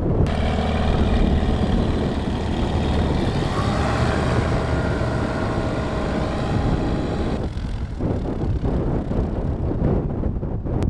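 A light aircraft's piston engine and propeller running steadily, with wind rushing over the microphone. The hissy wind noise thins out about seven and a half seconds in.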